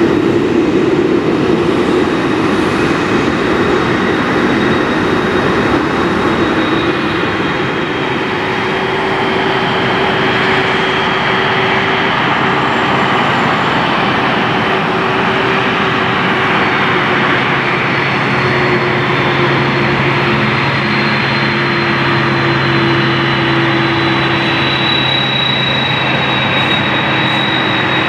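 Boeing 747 jet engines running: a loud, steady rush with a high whine and a few lower held tones.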